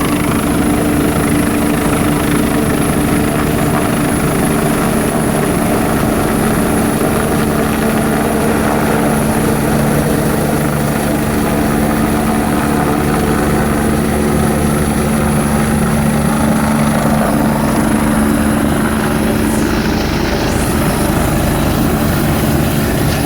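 Air-ambulance helicopter running steadily and loudly, the rotor beating fast under a steady engine whine.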